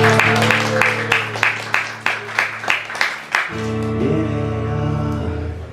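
Acoustic guitar strummed in an even rhythm, about three to four strums a second. About three and a half seconds in, the strumming stops and a chord is left ringing.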